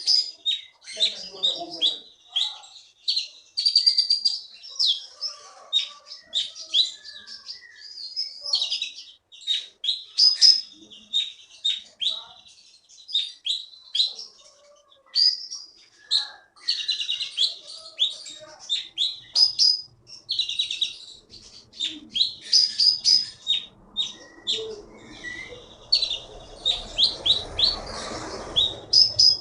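A konin songbird singing without pause: a fast, varied string of sharp chirps and short whistles. Near the end a low rushing noise rises underneath.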